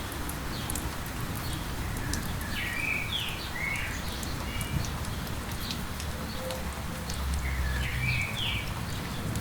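Light rain falling steadily, with scattered ticks of drops. A songbird calls in short repeated phrases, in two bouts.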